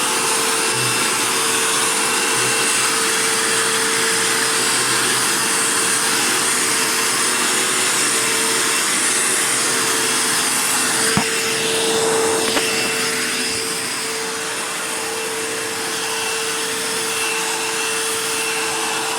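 Dirt Devil Jaguar vacuum cleaner running steadily, its motor giving a constant whine over a rushing hiss. A sharp click comes about eleven seconds in, and the sound drops slightly a few seconds later.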